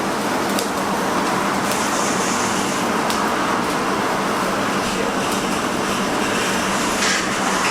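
Wood-fired chicken roasting machine running after being started: a steady rushing, whirring noise with a low hum and a few faint clicks.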